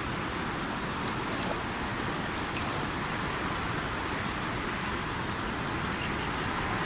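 Campfire burning: a steady rushing hiss with a few faint crackles and pops from the burning wood.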